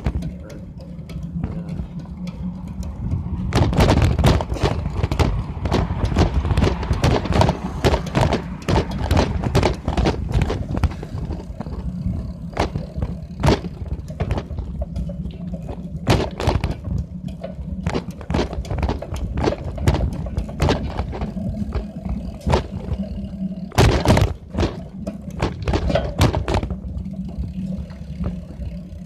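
Bicycle being ridden: irregular clicks and knocks over a low steady rumble, busiest for the first ten seconds or so and again near the end. The rider puts the clicking down to a dry chain that is not oiled enough.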